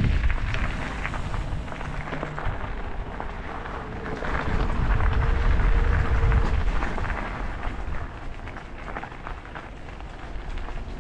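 Wind buffeting the microphone along with road noise from a moving e-bike: a steady rushing hiss with deep rumble that swells about four seconds in and eases off near the end.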